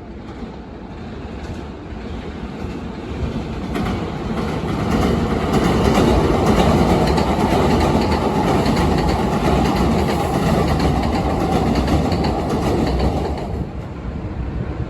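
Hankyu electric commuter train running across a railway bridge over the Yodo River. The wheel noise builds over a few seconds, stays loud for about eight seconds, then drops away near the end.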